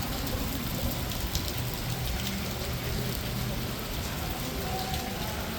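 Heavy rain pouring down: a steady hiss with individual drops ticking sharply against surfaces.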